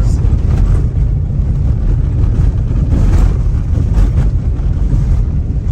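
Steady low rumble of a car driving on a rough road, heard from inside the cabin.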